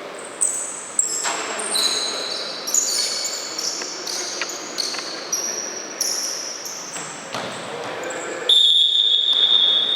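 Futsal game play: shoes squeaking on the court floor and the ball being kicked and bouncing, a knock every second or so. Near the end a referee's whistle gives one long blast of about a second and a half, the loudest sound.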